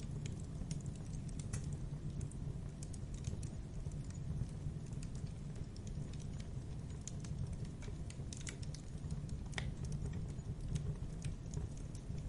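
Campfire burning: a low steady rumble of flames with irregular sharp crackles and pops of burning wood, a louder pop near the middle.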